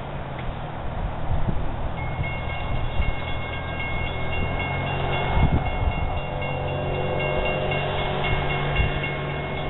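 Amtrak diesel train passing, its locomotive engine running with a steady low drone. From about two seconds in, several high steady tones sound together over it.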